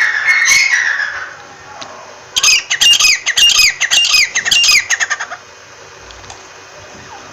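A francolin (teetar) calling: loud repeated notes that die away about a second in, then a fresh rapid series of about eight sharp, falling notes lasting some three seconds.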